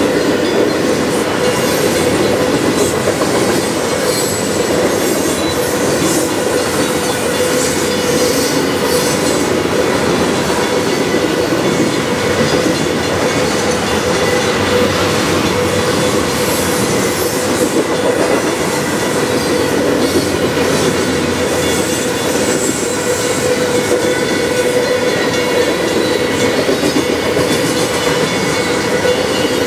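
Freight train of covered hopper cars rolling steadily past: continuous rumble and clatter of steel wheels on the rails, with a steady squealing tone held over it.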